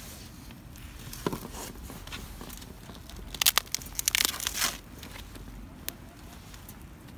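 Crinkling and rustling of something being handled, with a burst of sharp crackles about halfway through.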